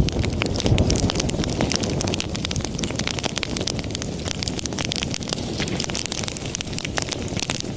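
Wood fire burning in a fireplace: dense, irregular crackling and popping over a steady low rumble.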